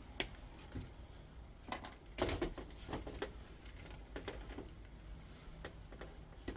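Irregular clicks and rustles of hands working an induction hob's copper coil, as a wire is snipped and the copper winding pulled through.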